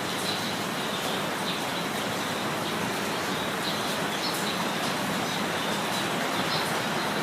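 Steady rain falling, with birds chirping now and then over it.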